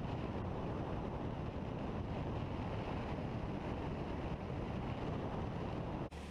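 Steady wind noise buffeting the microphone, heaviest in the low end, cutting off abruptly near the end.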